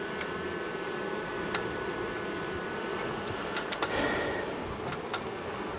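A mass of honey bees from a disturbed wall colony buzzing in a steady drone, with a few sharp clicks and taps over it.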